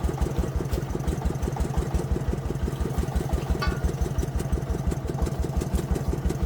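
Single-cylinder diesel engine of a công nông farm vehicle running steadily, with an even beat of about eight pulses a second. A brief high squeak comes about three and a half seconds in.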